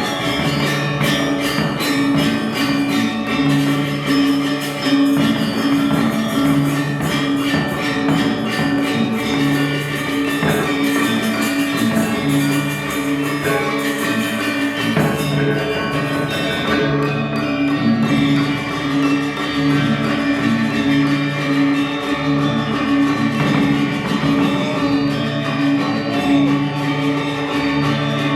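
Balinese gamelan gong ensemble playing: bronze metallophones and gongs ringing in steady, evenly repeating notes, with small cymbals clashing rapidly over them.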